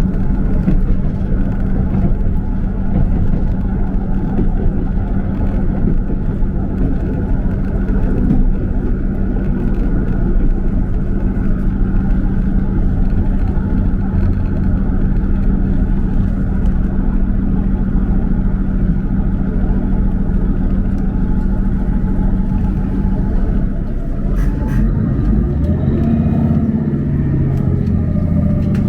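Steady running noise of a motor vehicle in motion, a low rumble with a constant engine hum. About 25 seconds in, the engine note changes and a few clicks are heard.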